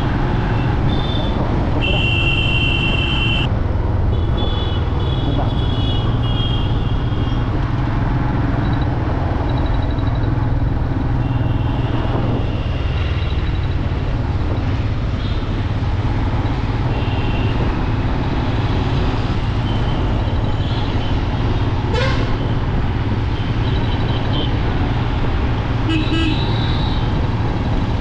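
Steady road and wind rumble of a motorcycle ride on a highway, with other vehicles' horns honking several times.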